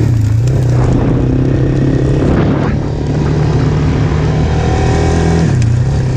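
Yamaha Moto-4 225 ATV's single-cylinder four-stroke engine running steadily while riding, its pitch dipping briefly just after the start and again about five and a half seconds in.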